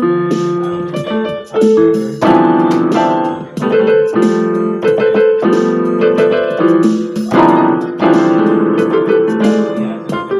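Piano or electric keyboard playing a melody with chords, notes struck one after another and left ringing.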